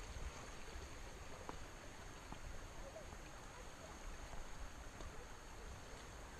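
Faint, steady rush of flowing river water, with a low rumble of wind on the microphone and a few faint high chirps.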